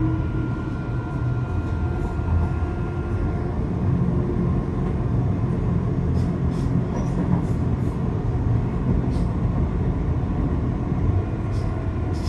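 Electric passenger train running, heard from inside the carriage: a steady low rumble, with a motor whine that fades out a few seconds in and a few light clicks from the wheels and track later on.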